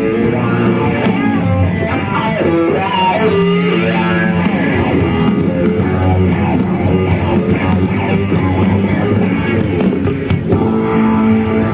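Rock music led by guitar, with sustained and bent notes.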